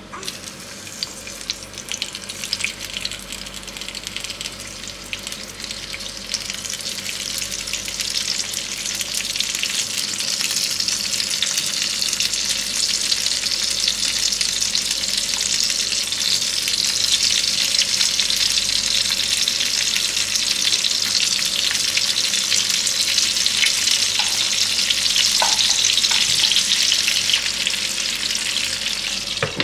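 Garlic and a red chili frying in hot oil in a nonstick pan, a steady sizzle with many small pops. The sizzle grows louder over the first dozen seconds as sliced tomatoes are laid into the hot oil, then holds steady.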